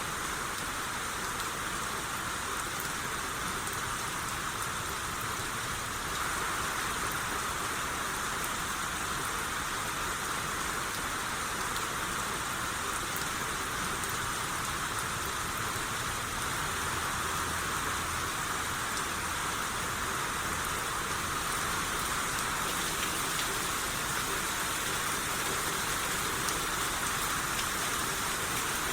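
Steady rain falling and pattering on surfaces, an even hiss of many drops that grows slightly louder about six seconds in.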